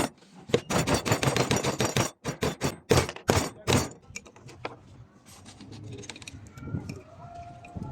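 A fast run of sharp knocks, followed by several separate heavier strikes about two to four seconds in, then lighter scattered clicks.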